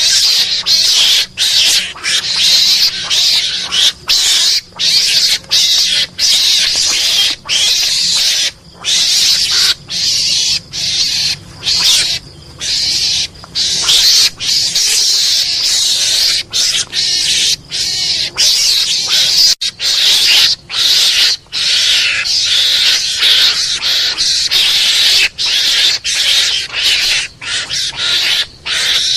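Mongoose (garangan) calls played as a hunting lure: harsh, raspy chattering in rapid bursts separated by brief gaps, going on without a break in the pattern.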